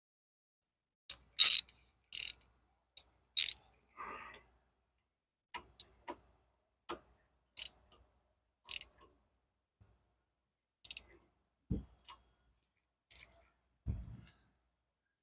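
Scattered sharp metallic clicks and clinks of hand tools working the terminal nuts on an ATV starter solenoid, loudest in the first few seconds, with a few dull thumps near the end.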